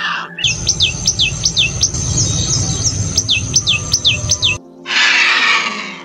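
Bird calls: a rapid run of high whistled notes, each falling in pitch, about three a second, over a low rumble. They stop suddenly and are followed by a short burst of hiss.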